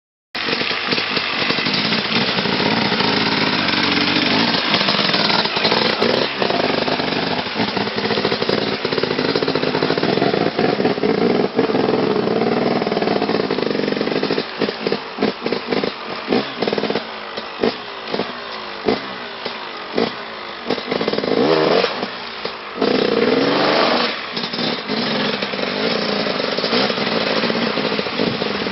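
Off-road vehicle engine running hard and revving, with the revs rising and falling repeatedly in the second half.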